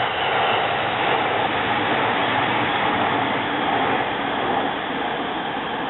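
JR East 185 series electric train running on the rails: a steady rush of wheel and running noise that eases slightly near the end.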